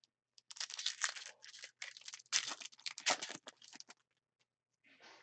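Foil trading-card pack wrapper being torn open and crinkled by hand, a crackling rustle in two stretches that fades out about four seconds in.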